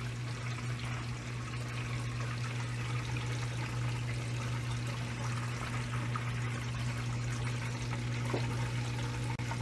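Water pouring and running steadily, over a steady low hum.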